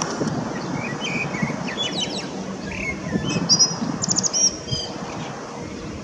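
Small birds chirping in quick, high, repeated calls, clustered from about a second in until near the end, over a steady low rumble.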